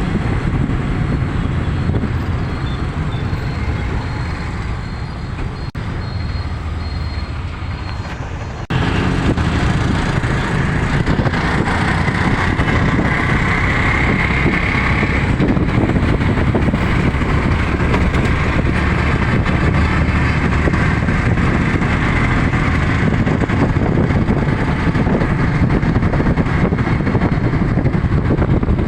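Steady vehicle noise with a low rumble. It jumps abruptly louder about nine seconds in and stays at that level.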